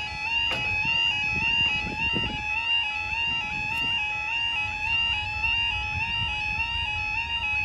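Level crossing warning alarm sounding continuously, a two-tone yodel stepping back and forth between two pitches several times a second, over a low rumbling background.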